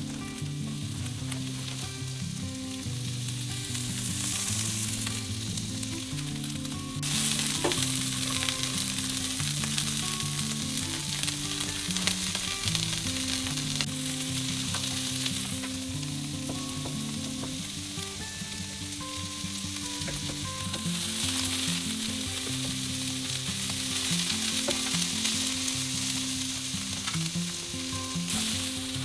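Soybean sprouts and Chinese chives sizzling in hot oil in a nonstick frying pan while being stir-fried, the sizzle jumping louder about seven seconds in and swelling and easing after that. Acoustic guitar music plays underneath.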